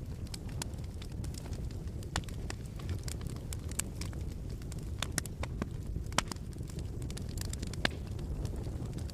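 Wood fire burning in a fireplace: a steady low rumble of flames with irregular sharp crackles and pops, two louder pops at about six and eight seconds in.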